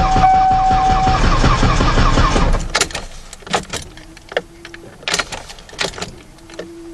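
Ford Ranger's starter cranking the cold engine in a fast, even rhythm for about two and a half seconds without it catching, then stopping. Scattered clicks and two short hums follow as the key is cycled to bring up fuel pressure.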